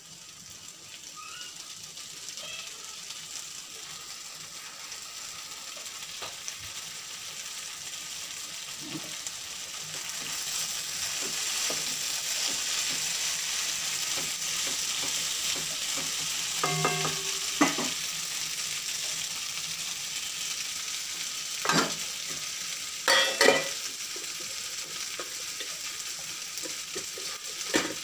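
Food sizzling as it is stir-fried in a steel kadai, the sizzle growing louder over the first ten seconds or so. A wooden spatula knocks and scrapes against the pan a few times in the second half.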